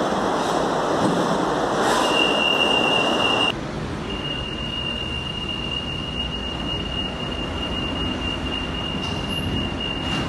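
São Paulo metro train on the rails: loud rushing noise that drops away abruptly about three and a half seconds in, and a steady high-pitched wheel squeal that starts about two seconds in and holds on.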